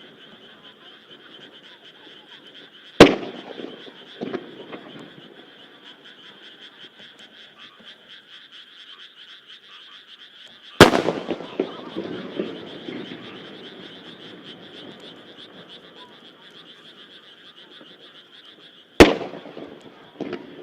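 Three large aerial firework shells bursting about eight seconds apart, each a sharp boom with a rolling echo and a smaller crack just after. Between them, frogs croak steadily in a continuous pulsing chorus.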